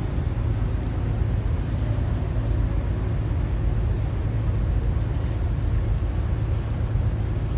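Steady low engine rumble of a large ship and its tugboats under way.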